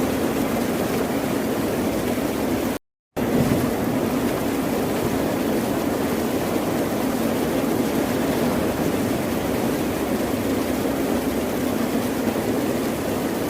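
Ocean surf, a steady continuous wash of waves with no distinct breakers. It cuts out completely for a moment about three seconds in, then resumes.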